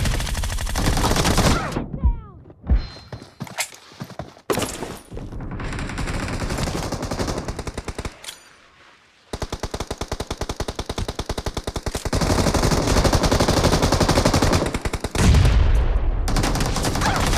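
Video-game automatic gunfire: rapid, evenly spaced shots in long bursts with brief pauses between them.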